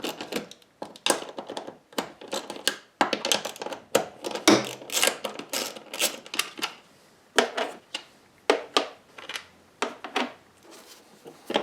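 Ratchet and socket clicking on the 10 mm seat bolts as they are undone, in quick runs of sharp clicks with light metal clinks between them.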